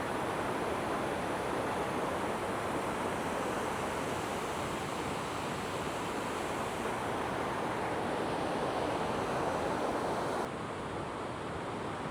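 Waterfall rushing: a steady wash of falling water. About ten seconds in it becomes slightly quieter and duller.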